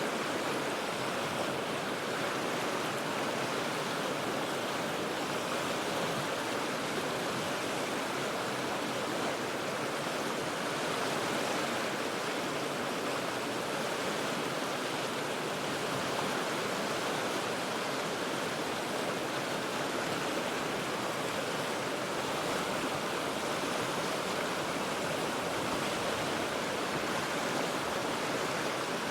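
Cheat River running over rocks: a steady, even rush of moving water that neither swells nor breaks.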